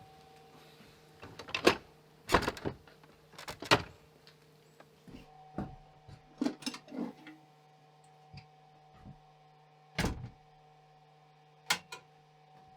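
A series of irregular sharp knocks and clatters, about ten in all, loudest in the first four seconds and again about ten seconds in, over a steady low electrical-sounding hum.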